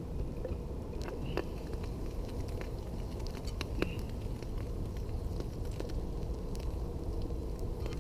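Campfire crackling, with diced ham sizzling in butter in a pie iron over the fire; scattered clicks and two sharper pops, about one and a half and four seconds in.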